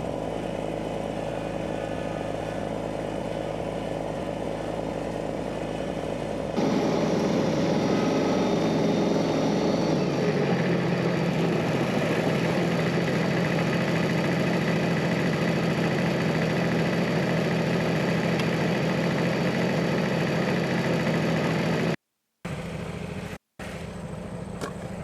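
An engine running steadily. It gets louder about six and a half seconds in and cuts out abruptly twice near the end.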